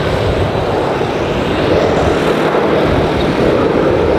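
Boeing 737-900ER jet engines (CFM56-7B turbofans) running as the airliner comes in to land: a loud, steady jet noise with no breaks.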